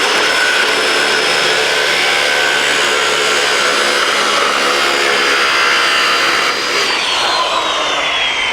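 Electric power tool cutting metal: a loud, steady high whine with grinding noise. About seven seconds in the motor is switched off and its pitch falls steadily as it winds down.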